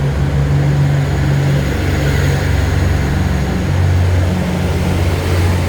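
A train running in the station, giving a loud, steady low drone that shifts slightly in pitch near the end.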